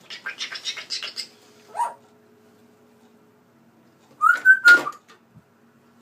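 Pet bird calling: a quick run of chirps for about a second, a short single call a little later, then a loud whistle and harsh squawk about four seconds in.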